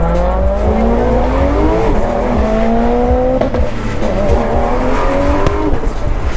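Car engine accelerating hard through the gears: the pitch climbs, drops at a shift about two seconds in and again about three and a half seconds in, then climbs once more.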